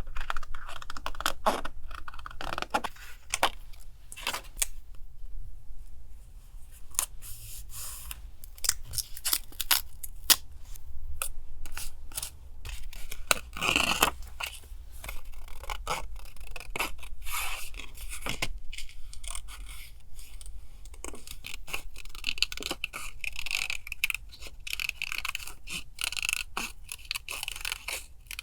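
Paper being handled for a collage: sheets torn, scraped and rustled, a busy run of small crackles and taps.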